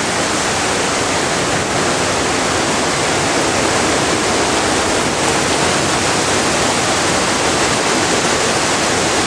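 Hurricane wind in a big gust, a loud, steady rush of wind noise buffeting the camcorder microphone.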